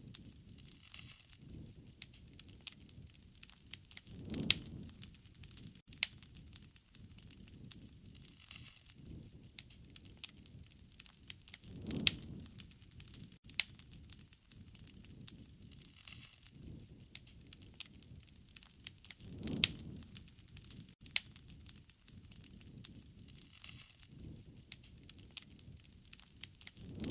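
Wood fire crackling, with sharp pops scattered all through and a soft low rush that swells about every seven or eight seconds.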